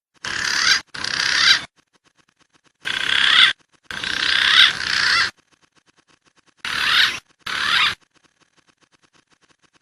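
Recorded wild pigeon calls from a lure track, coming in harsh, noisy bursts of about a second, mostly in pairs, with short silences between.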